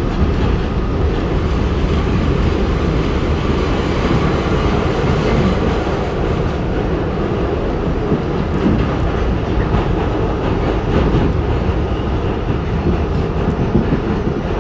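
R68 subway car running at speed through a tunnel, heard from inside the car: a steady, loud rumble of wheels on rail with some clickety-clack.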